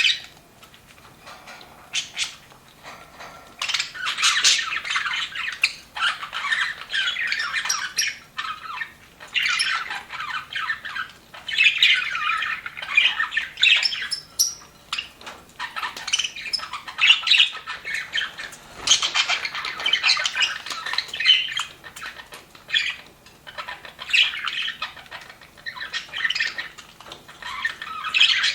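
A group of budgerigars chattering and warbling in fast, high, busy bouts with short pauses. There are only a few calls at first, and the chatter becomes near-continuous from a few seconds in.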